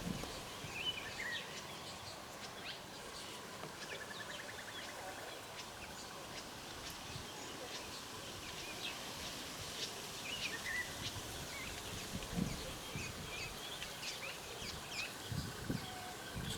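Wild birds calling outdoors: many short, high chirps and whistles throughout, with a brief trill about four seconds in, over a steady background hiss. There are a few soft low thumps near the end.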